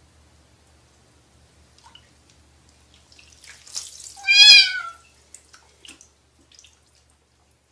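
A cat meows once, a short wavering call about four seconds in, with faint rustling just before it and a few light clicks after.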